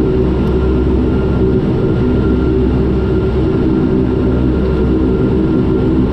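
Turboprop airliner's engines and propellers droning steadily, heard from inside the aircraft, with an even low propeller hum and a faint high whine over it.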